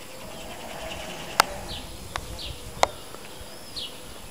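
Birds chirping in short, high, falling calls. Three sharp clicks come about one and a half, two and two and three-quarter seconds in, and they are the loudest sounds.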